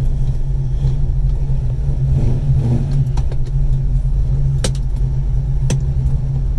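The 1968 Mustang's 310 cubic-inch small-block Ford V8, with an aftermarket Lunati cam, idling with a steady low rumble, heard from inside the cabin. Two sharp clicks come about two-thirds of the way through.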